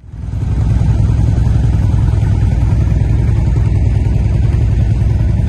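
Quad bike (ATV) engine running steadily and loudly, coming up within the first half second.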